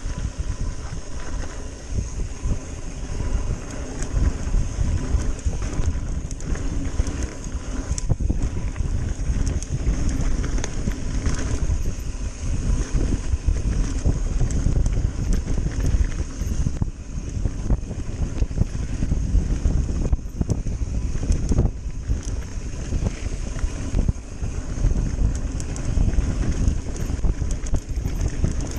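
Wind buffeting a mountain-bike rider's camera microphone over the rattle and knocks of the bike and tyres on a rough, fast trail.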